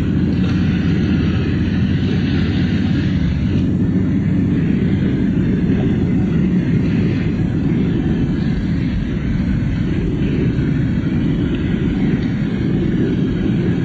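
A car driving along, heard from inside the cabin: steady low engine and road noise.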